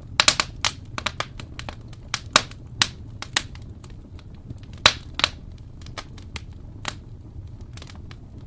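Wood fire burning in a fireplace: irregular sharp crackles and pops over a low steady rumble, with a cluster of loud pops just after the start and another loud pop about five seconds in.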